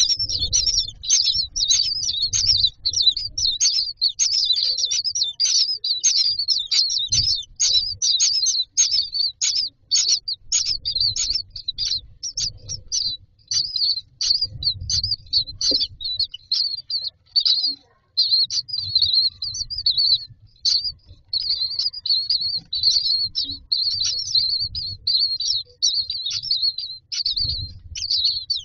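Common myna nestlings begging: a continuous stream of rapid, high-pitched chirps, with soft low rustling from movement in the nest now and then.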